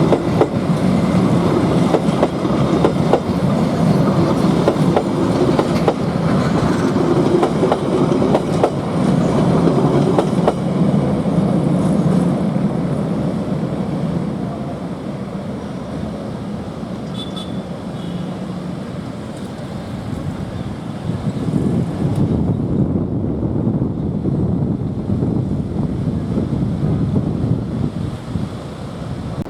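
Passenger train running past, wheels clattering over the rail joints. The clatter is loudest in the first half, eases about halfway through, and builds again near the end.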